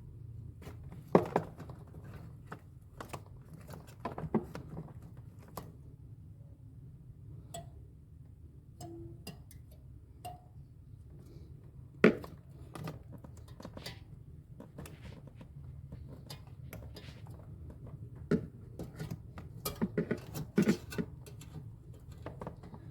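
Scattered metallic clinks and knocks of tools and parts being handled during refrigerator repair work, the sharpest about a second in and near the middle, with a quick cluster near the end, over a steady low hum.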